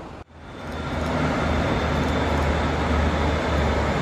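The sound cuts out for an instant about a quarter second in. A train's running noise then fades up over about a second and holds steady: a low hum under a broad rushing noise, with a faint high steady whine.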